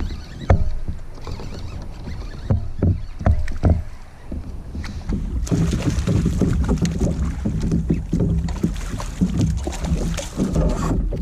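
A few hollow knocks and clunks of a paddle and gear against a plastic kayak, then, about five seconds in, a hooked bass splashing and thrashing at the water's surface beside the kayak, which goes on to the end.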